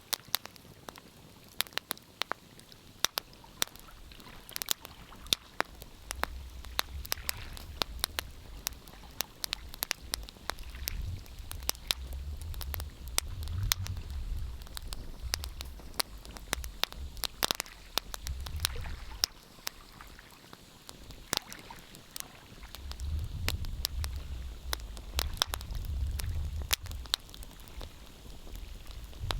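Wood fire crackling, with frequent sharp pops and snaps, over a low rumble that swells and fades several times.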